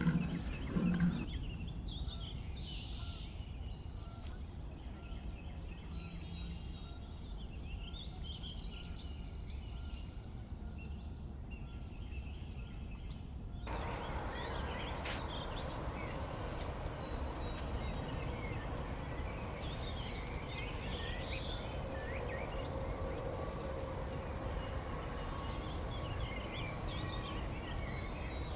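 Small birds chirping and twittering in quick, repeated calls over a steady low background rumble. The background changes abruptly about a second in and again about halfway through.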